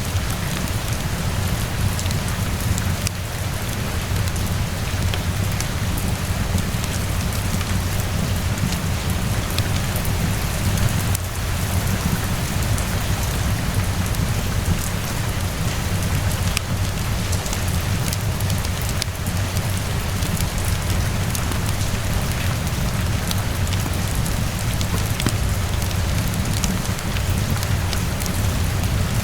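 Steady rainfall falling on a surface, a dense even hiss over a low rumble, with scattered sharp clicks and pops of a crackling wood fire.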